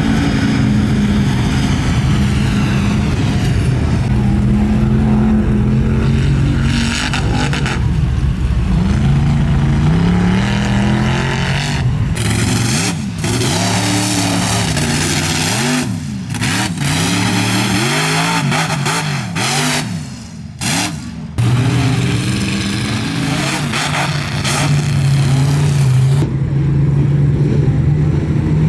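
Mud truck engines revving hard, the pitch climbing and dropping again and again, with several abrupt cuts between engines.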